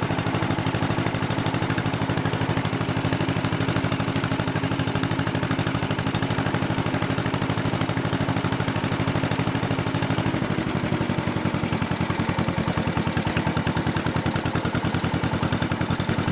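1955 John Deere 40S two-cylinder engine running, its exhaust popping in a fast, even beat. About ten seconds in, the beat slows slightly and the pops stand out more.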